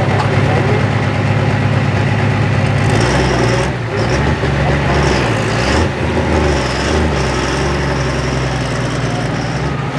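Super stock diesel 4x4 pulling truck's engine running loud and steady under load. About three seconds in, its note shifts and a high steady whistle joins it.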